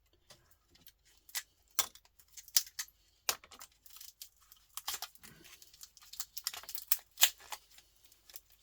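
Irregular sharp clicks and snaps of pliers or cutters working a small circuit-board transformer as its copper winding is pulled off for scrap.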